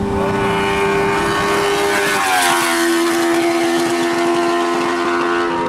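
Open-wheel race car engine running at steady high revs as the car passes. Its pitch drops about two seconds in as it goes by, then holds steady.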